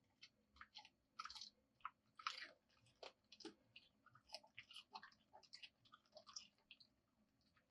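Faint, irregular crisp crunching and clicking, many small sounds a fraction of a second apart.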